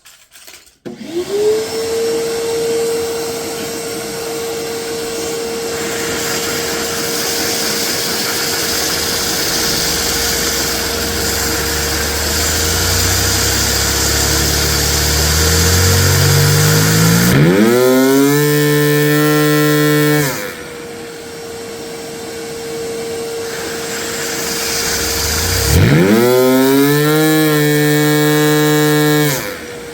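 Vacuum-powered Lego engine with 3D-printed parts running off a vacuum cleaner's steady whine. The engine's note climbs slowly as it speeds up, then twice sweeps up into a loud, high-revving buzz that holds for about three seconds each time.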